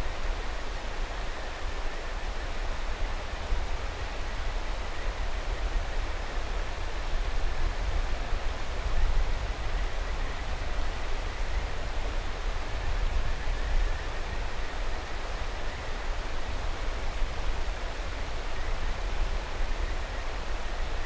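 Mountain river rushing steadily, with a deep low rumble. Faint, thin, high calls of kajika frogs (Buergeria buergeri) come and go over the water noise.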